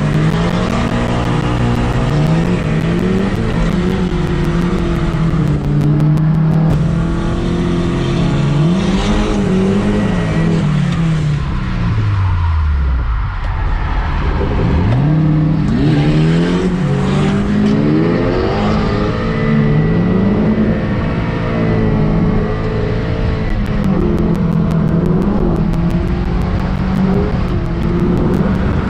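Toyota KE70 Corolla's 7A-GE four-cylinder engine heard from inside the cabin, driven hard with the revs repeatedly climbing and falling. About twelve seconds in, the revs drop right down before climbing again.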